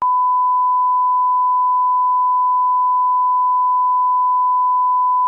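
A steady electronic beep: one pure, unchanging high tone.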